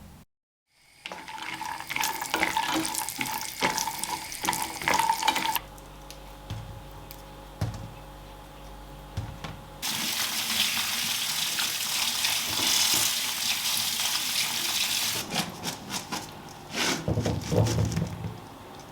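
Water running from a tap into a sink in two spells, with short knocks and clatters between and after them.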